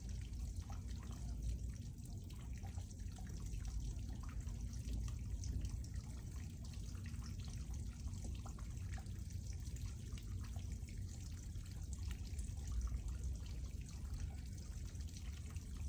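Water flowing and trickling steadily, with many small drips and splashes throughout.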